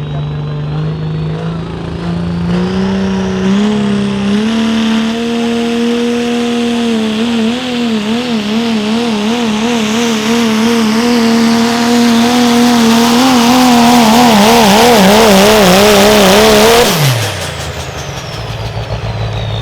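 Diesel pickup engine under full load pulling a sled: the revs climb in steps over the first few seconds, then hold high with a wavering pitch as it gets louder. About seventeen seconds in the throttle cuts and the engine drops quickly to idle while a high whistle winds down.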